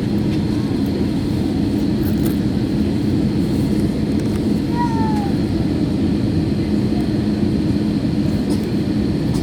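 Steady jet airliner cabin noise: engine and airflow roar with a constant low hum. A short falling squeak comes about halfway through.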